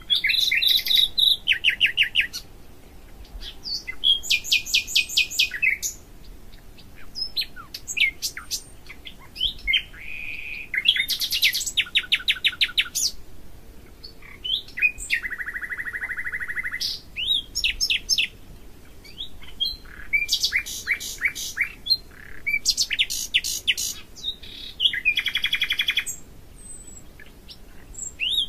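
A songbird singing: phrases of rapid, repeated high notes and trills, each a second or two long, with short pauses between them.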